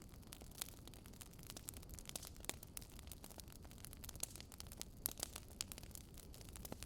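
Wood fire crackling in a fireplace: irregular sharp pops and snaps, several a second, over a faint low rumble of the flames, with a louder pop about five seconds in.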